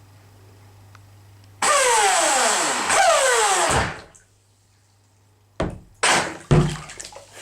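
RC jet boat's electric motor and water jet driven in two short bursts on the throttle, churning water, the whine falling in pitch as each burst winds down. Several sharp knocks follow near the end.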